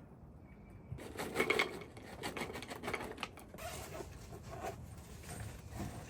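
Irregular rustling and scraping, starting about a second in and loudest soon after.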